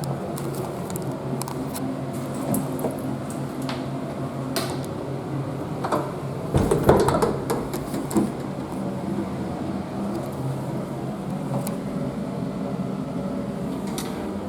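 Steady hum of restroom ventilation or air conditioning, with scattered light clicks and a brief louder clatter about seven seconds in.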